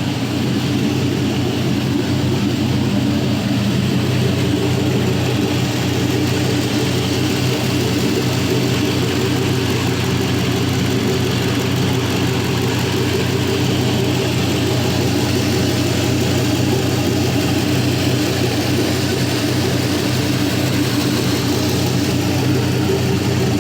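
4.8L Gen III LS V8 (LR4) idling steadily at about 700 RPM while warming up, running in closed loop.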